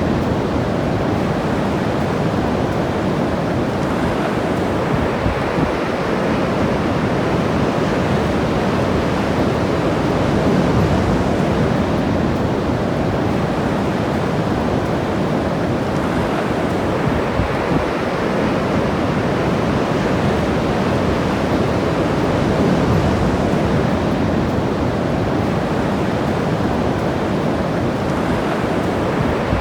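Ocean surf washing onto the shore, a steady rush that swells and eases slowly every ten seconds or so.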